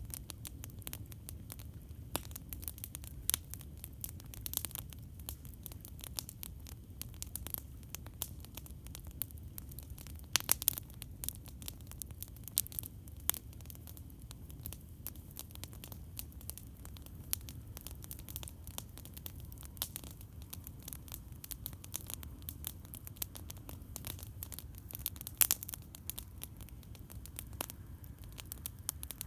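Beach campfire crackling: wood burning with constant irregular snaps and pops, a few sharper ones standing out, over a steady low rumble.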